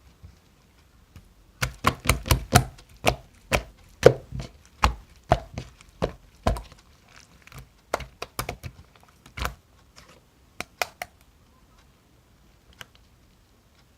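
A run of irregular sharp taps and knocks, quick and dense for several seconds, then thinning out to a few scattered clicks.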